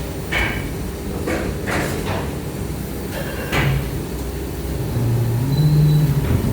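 AOTAI U/150 150-ton servo-driven plastic injection moulding machine running its automatic cycle: a steady low hum with several sharp clunks and hisses in the first few seconds, then a louder low hum from about five seconds in.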